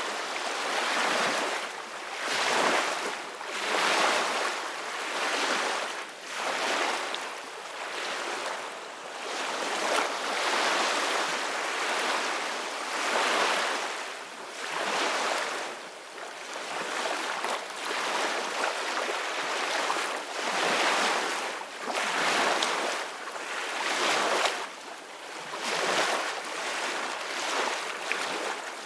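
Ocean waves washing in, a continuous hiss of surf that swells and falls back every two to three seconds.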